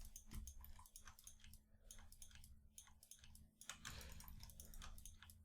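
Faint, quick, irregular clicking of a computer mouse and keyboard under a low steady hum.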